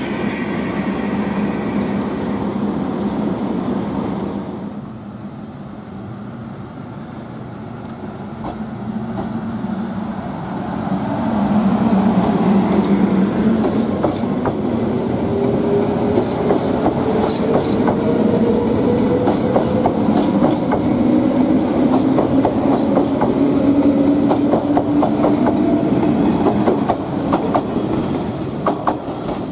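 A train pulling away and gathering speed. Its motor or engine note rises slowly in pitch from about ten seconds in, and the wheels click over rail joints more and more often.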